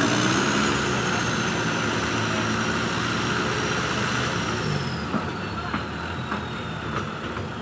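Off-road 4x4 engine running hard, its note clearest in the first second or so, over a steady rush of noise, with a faint high whine slowly falling in pitch.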